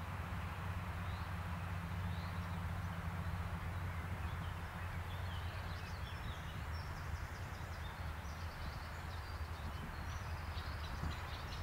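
A steady low rumble with small birds chirping, the chirps starting about halfway through and growing busier near the end.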